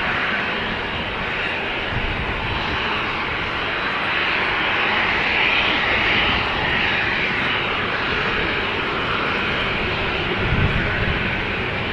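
Airliner engine noise as an aircraft passes: a steady, even rush that swells a little a few seconds in and then eases slightly.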